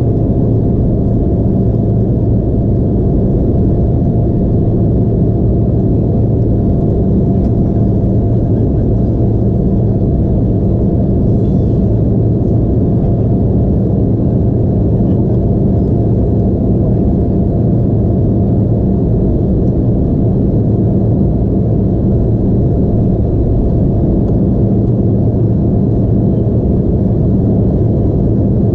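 Steady cabin noise inside an Embraer E175 jet: its engines and airflow make an even drone with a low hum and a faint steady higher tone.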